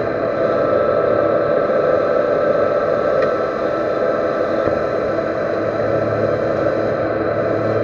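Metal lathe running steadily with a constant hum and hiss, turning a steel shaft between centres.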